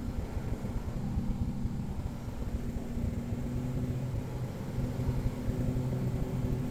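Cessna 177 Cardinal's piston engine and propeller running steadily: an even, low drone.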